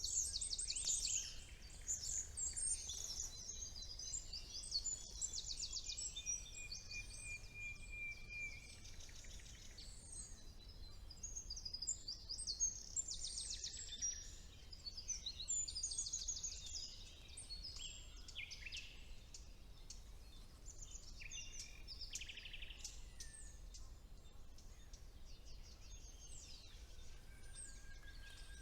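Spring woodland bird chorus with a common nightingale: several songbirds sing over one another in fast repeated notes, trills and chirps, with one long level whistle about six seconds in. The song is busiest in the first half and thins out toward the end.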